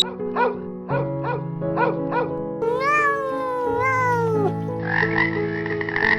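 Animal calls over steady background music: about five short rising cries, then a long drawn-out cry that falls away at its end, then a harsher call near the end.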